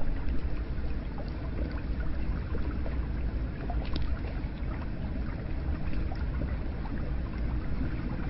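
Hot-spring water running steadily, with scattered small drips and splashes over a constant low rumble.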